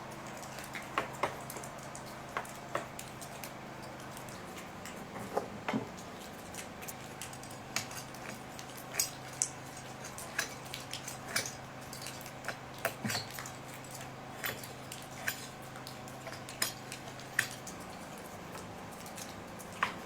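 Irregular clicks and taps of a chainsaw's plastic cover and parts being handled and cleaned by hand, with the engine off, over a faint low hum that stops near the end.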